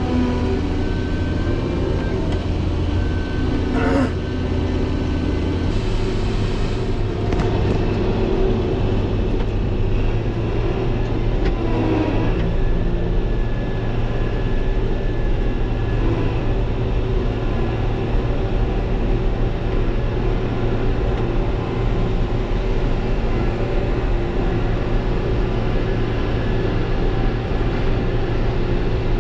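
Combine harvester's engine running steadily, its note stepping to a slightly different speed about six seconds in. A short knock about four seconds in, and a fainter one near twelve seconds.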